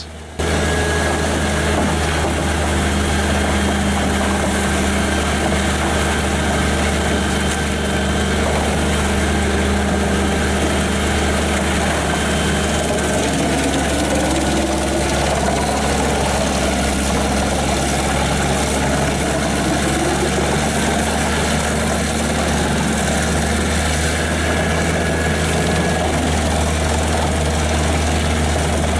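Diesel engine of a Pezzolato PTH 1200/660 industrial wood chipper, a Caterpillar C9, running steadily with a deep, even drone.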